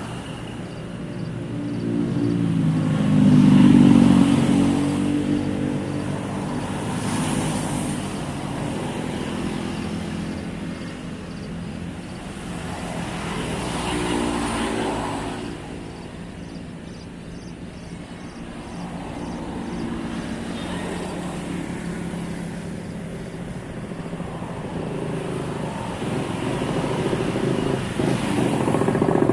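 Motor vehicles passing on a road, their engines swelling and fading as each goes by, loudest a few seconds in; a rapid run of faint high ticks or chirps comes about two-thirds of the way through.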